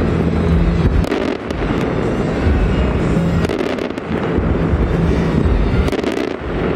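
Aerial fireworks bursting in quick succession: several sharp bangs over a continuous rumble of explosions.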